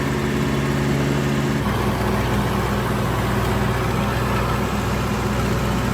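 Large old farm tractor's engine running steadily as it is driven, its note changing abruptly about a second and a half in.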